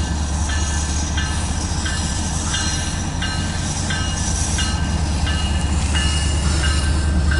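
CSX loaded autorack freight train rolling past: a steady low rumble, with short high-pitched tones recurring about every two-thirds of a second.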